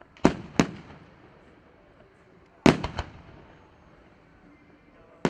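Aerial firework shells bursting in sharp, echoing bangs: two in quick succession near the start, a loud bang about halfway followed by a couple of smaller cracks, and another bang at the very end.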